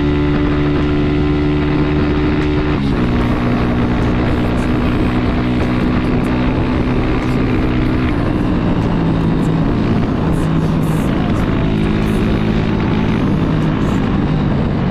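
Honda CG 150 Titan's single-cylinder four-stroke engine running steadily while riding. Its pitch drops sharply about three seconds in and falls again in the second half.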